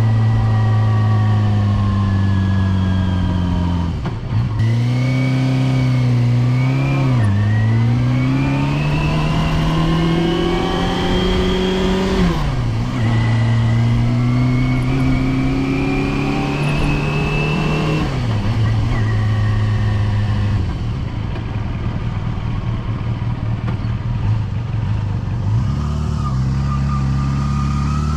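Yamaha FZR250's 250cc inline-four engine under way. The revs climb and drop sharply at each gear change, several times, then run steady near the end.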